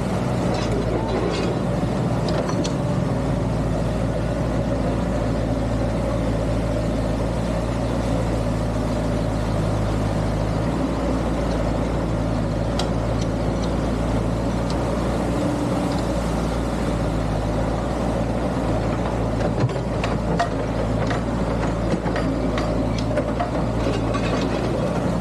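Excavator's diesel engine running steadily, with scattered light knocks and clanks, more of them in the last few seconds.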